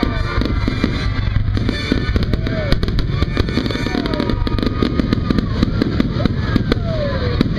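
Fireworks display going off: a rapid, dense series of sharp bangs and crackles, with music playing underneath.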